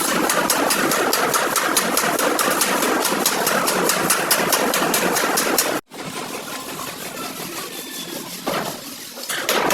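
An engine running steadily at idle with a fast, even ticking. It cuts off abruptly about six seconds in, continues more quietly, and comes back loud near the end.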